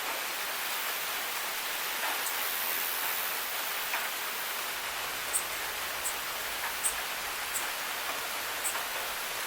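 Steady rain hiss, with a string of sharp single drop ticks about one or two a second from about halfway through.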